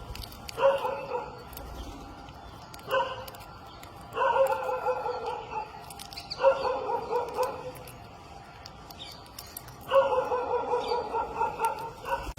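A parrot giving harsh, pulsing begging calls at feeding, in about five bouts of one to two seconds each, with short pauses between.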